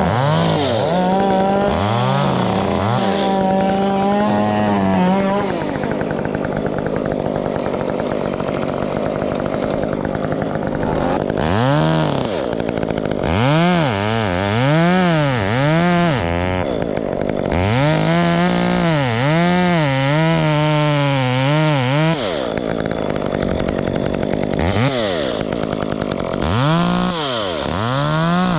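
Two-stroke chainsaw running at high revs, then its engine pitch dropping and climbing again about once a second as the throttle is let off and squeezed, over and over through the second half.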